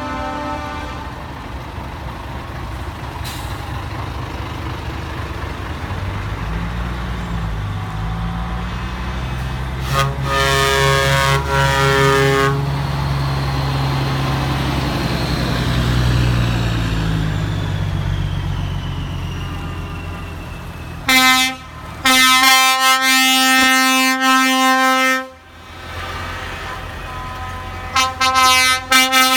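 Trucks driving past with their engines running, sounding air horns. A horn sounds briefly about ten seconds in, then loud air-horn blasts come near the end: a short one, a long one of about three seconds, and a few quick toots.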